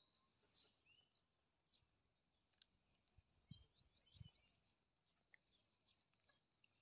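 Near silence, with faint bird chirping: a quick run of short high chirps from about two and a half seconds in, and two soft low thuds around three and a half and four seconds.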